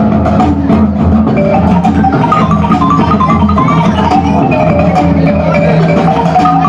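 Percussion ensemble playing, led by marimba: quick runs of short mallet notes over steady low sustained bass notes.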